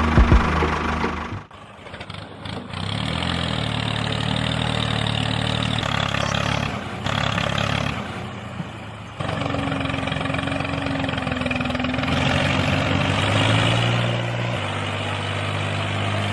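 An engine running steadily in several short stretches that break off and change pitch abruptly, as if cut together.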